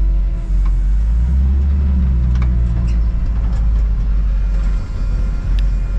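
Mustang 5.0-litre V8 in a 1960 Ford F100 running steadily at low speed, creeping forward, with a deep, even engine note and a few faint clicks.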